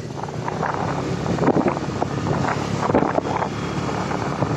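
Honda Activa 6G scooter's small single-cylinder engine running while riding, with wind buffeting the microphone.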